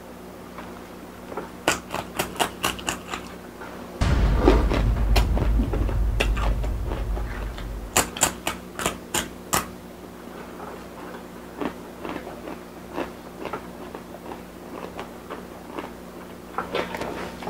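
Crisp crunching of a spicy rolled tortilla chip (blue Takis) being bitten and chewed close to the microphone: a quick run of sharp crunches about two seconds in and another about eight seconds in, with softer mouth sounds between. A loud low rumble runs from about four to eight seconds.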